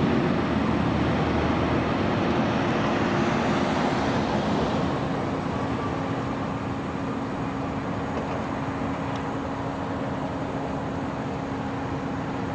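Heavy fire truck driving off: engine running and road noise with a steady hum, slowly fading as it pulls away.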